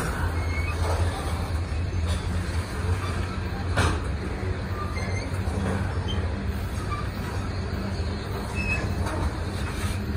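Freight train of tank cars rolling past: a steady low rumble of steel wheels on rail, with a single sharp clack just under four seconds in.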